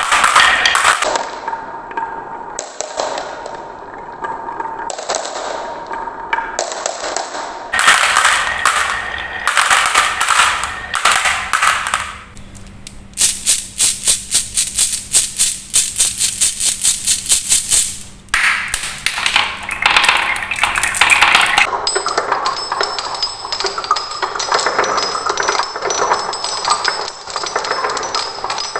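Marbles rolling and clacking down wooden marble-run tracks in several separate runs. In the middle comes a quick, even run of clacks, about five a second, lasting some five seconds.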